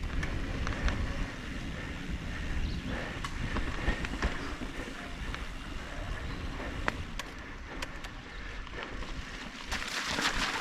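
Mountain bike riding on a dirt trail, heard from a helmet-mounted camera: steady low wind rumble on the microphone with scattered clicks and rattles from the bike over the ground. The low rumble eases off near the end.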